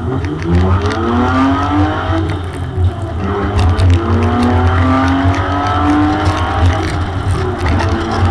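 Nissan VG33E 3.3-litre V6 in a 200SX race car under hard acceleration. Its pitch climbs steeply over the first two seconds, dips briefly, then climbs again more slowly and holds high.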